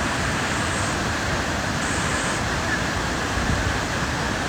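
Steady, even rushing of a mountain waterfall and river pouring down.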